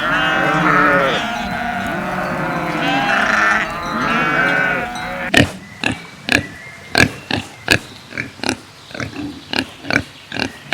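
Several farm animals bleating in overlapping, wavering calls for about five seconds. The bleating then gives way to a run of short, sharp animal calls, about two a second.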